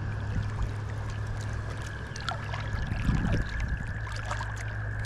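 Creek water running and splashing, with a louder slosh about three seconds in.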